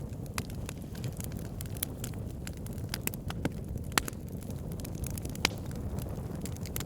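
Wood fire burning: a steady low rumble of flames with scattered sharp crackles and pops from the logs, the loudest pop about four seconds in.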